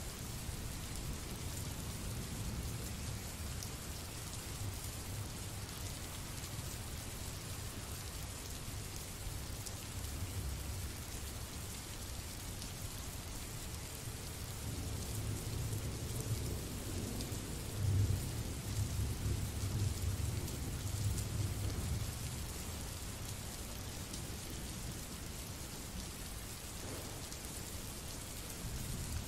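Recorded rain sound effect: steady rain hiss with low thunder rumbling underneath. The thunder swells through the middle and peaks about eighteen seconds in.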